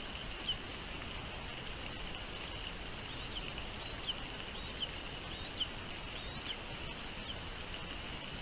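A small bird chirping in a series of short notes that rise and then drop, about one a second for a few seconds, over a steady high-pitched drone and an even hiss.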